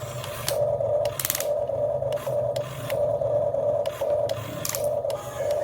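Small electric motor and gear drive of a radio-controlled construction model whining in short bursts, starting and stopping about twice a second, with light clicks and knocks between.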